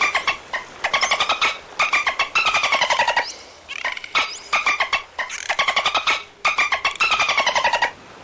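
Dolphin chattering: a series of rapid buzzing click trains in bursts of up to about a second, some falling slightly in pitch.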